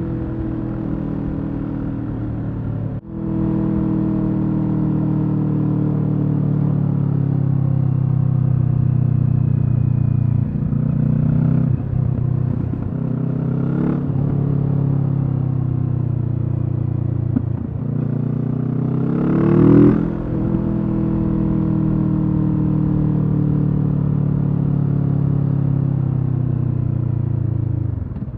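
Kawasaki Z650's parallel-twin engine through an aftermarket Leo Vince EVO Carbon exhaust, running under way at fairly steady revs. There is a brief cut in the sound about three seconds in, a few short breaks in the middle, and about two-thirds of the way through a quick rise in revs that falls away again.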